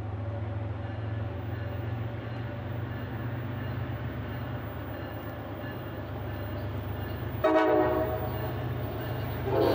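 Approaching diesel commuter trains, a steady low engine drone slowly growing louder. About seven and a half seconds in a train horn sounds a short blast, and a second horn blast begins just before the end.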